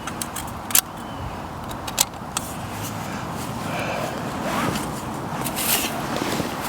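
Small titanium windshield panels being handled and set in place: a couple of sharp clicks, about a second and two seconds in, then lighter rustling and ticks of the gear over a steady background hiss.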